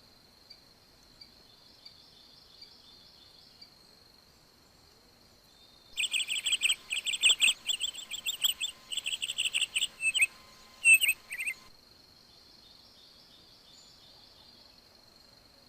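A bird singing a rapid run of loud chirping notes for about six seconds, starting about six seconds in, over a steady high-pitched insect drone, cricket-like, that runs throughout.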